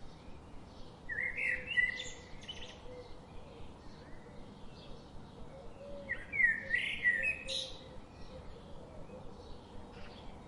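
Birds singing: two louder, fast warbling song phrases, one about a second in and one about six seconds in, over steady faint chirping from other birds.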